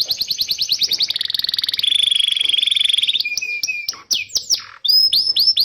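Canary singing. Fast trills of rapidly repeated high chirps run into a buzzy rolling passage, then a few falling whistled sweeps near the end before another quick trill starts.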